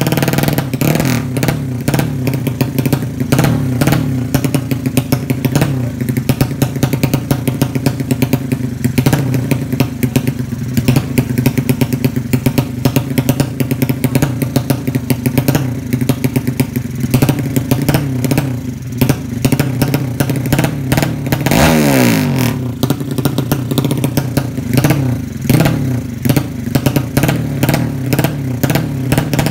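A drag-racing motorcycle engine running steadily at idle with a rapid, even firing beat, and one brief change in pitch about three quarters of the way through.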